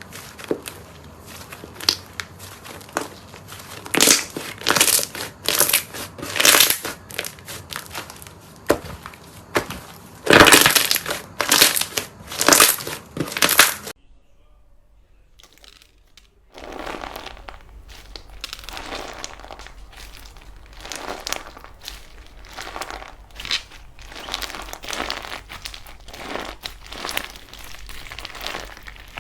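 Slime being squeezed and pressed, giving irregular bursts of crackling and crunching. About halfway through it stops briefly, then resumes as softer, denser crackling.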